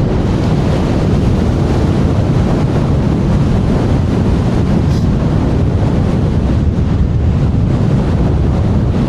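Strong wind buffeting the rider's clip-on microphone: a steady, loud, low rushing roar.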